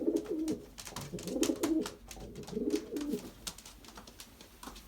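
Domestic racing pigeons cooing in a loft: three or four low, warbling coo phrases about a second apart, with scattered light clicks throughout.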